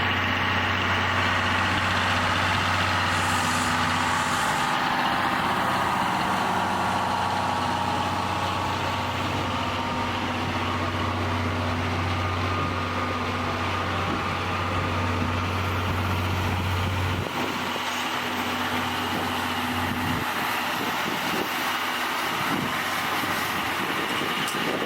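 Train machinery running steadily with a low drone and several steady tones above it; the low drone stops about two-thirds of the way through.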